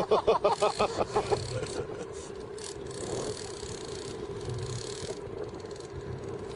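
Boat engine running with a steady hum. In the first second and a half a quick run of short pitched pulses, about eight a second, sits over it.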